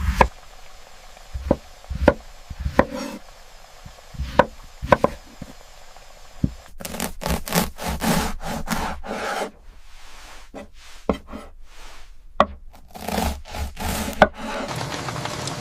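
Knife cutting food on a wooden cutting board: scattered single taps at first, then a run of quick, rasping cuts from about seven seconds in.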